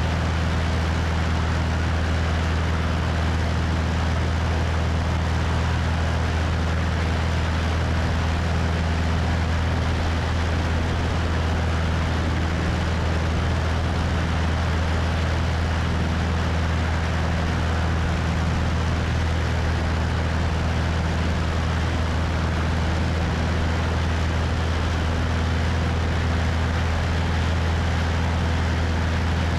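Cessna 172's piston engine and propeller droning steadily in flight, with wind rushing over the wing-mounted microphone. The pitch and level hold constant throughout.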